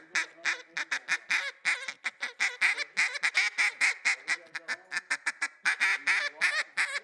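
Double-reed duck call blown in a rapid, uneven string of short clucks and quacks, about five or six a second: a hen mallard's feed-call chatter.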